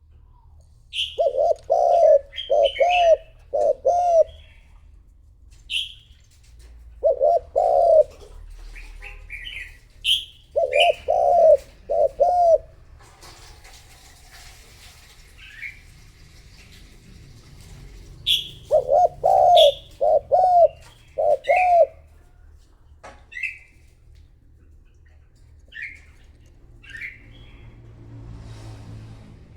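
Spotted dove cooing in repeated phrases of two to four coos, from a decoy bird calling to lure wild doves. Short, higher chirps of small birds sound between the phrases.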